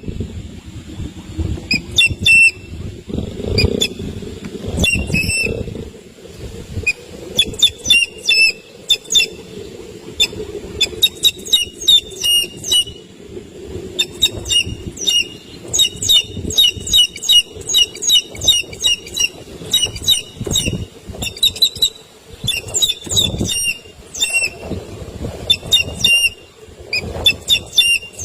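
A chick giving shrill, rapid peeping calls, several a second in long runs with short breaks, the repeated distress calls of a young bird under attack. Low rumbling and thumping noise runs underneath.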